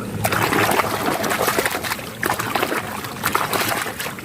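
Water splashing and sloshing as a muddy toy vehicle is rinsed and scrubbed by hand, with irregular small splashes throughout.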